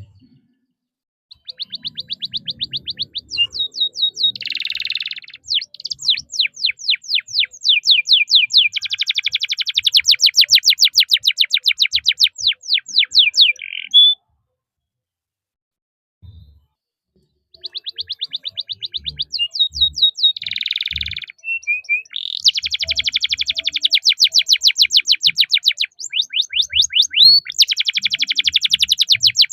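Domestic canary singing two long song phrases with a pause of a few seconds between them. Each phrase runs fast repeated chirps into long rolling trills, the cuit-cuit and long roll wanted for tutoring young canaries.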